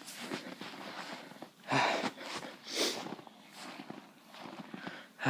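A person trudging through deep snow, with crunching footsteps and hard breathing; a few louder huffs or crunches come about two and three seconds in and again at the end.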